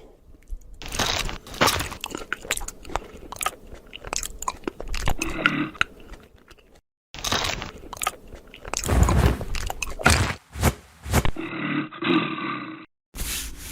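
Crunching and crackling sound effects, a dense run of short cracks and clicks laid down in edited snippets, with two brief cuts to total silence.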